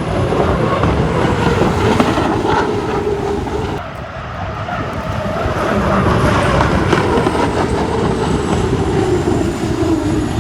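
Turbine engine of an unlimited hydroplane running on the water: a loud, steady drone with a faint high whine that slowly falls in pitch, over a choppy low rumble of wind on the microphone.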